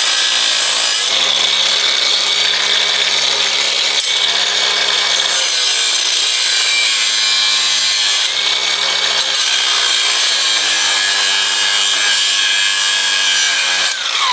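Power cut-off wheel grinding slits into a stuck metal part on a transmission shaft, a loud continuous hiss with a motor hum that shifts as the load changes. Near the end the tool is released and spins down in a falling whine.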